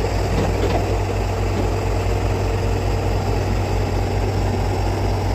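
Excavator's diesel engine running steadily at low revs, with an even low throb and no change in speed.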